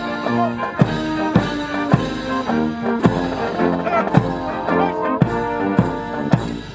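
Military brass band playing a march, with brass chords over a steady drum beat about twice a second. The music breaks off sharply at the end.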